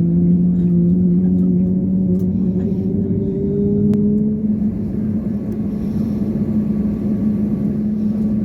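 Airbus A320neo engines running, heard inside the passenger cabin: a steady rumble with a low droning hum whose pitch rises a little about three to four seconds in.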